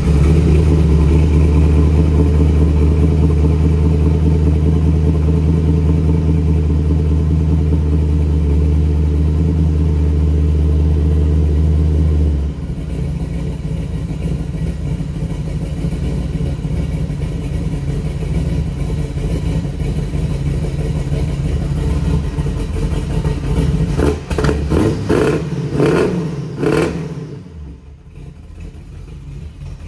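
Ferrari Daytona Spyder replica engine idling through twin quad exhausts just after a cold start: a strong, steady high idle that steps down to a lower idle about twelve seconds in. Near the end the sound turns uneven and briefly fainter.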